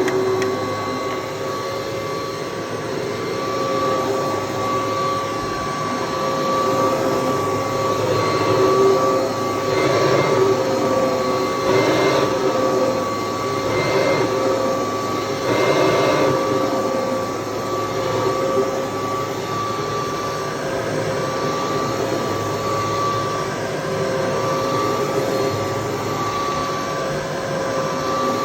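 1980 Kirby Tradition upright vacuum cleaner running, its motor and fan giving a steady whine over a rush of air. Several times, about two seconds apart, the rush of air swells briefly.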